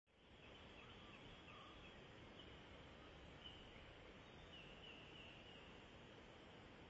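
Near silence: a steady faint hiss with a few faint, short, high bird chirps here and there, several in quick succession about four to five seconds in.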